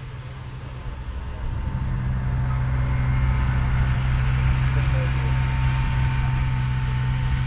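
Combine harvester running in a corn field, a steady low engine hum with mechanical noise that grows louder about two seconds in and then holds.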